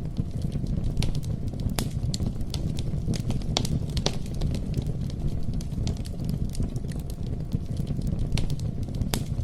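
Wood campfire burning: a steady low rumble of flames with frequent sharp pops and snaps scattered irregularly throughout.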